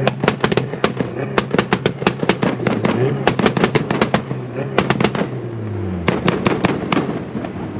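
Engine exhaust popping and crackling, a rapid string of sharp bangs over a low running engine note. The engine note falls away about six seconds in, and the last pops stop about a second later.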